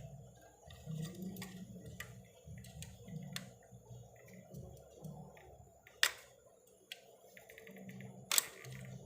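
Scattered sharp clicks and taps of tools being handled on a repair bench, with two louder snaps about six seconds and eight and a half seconds in.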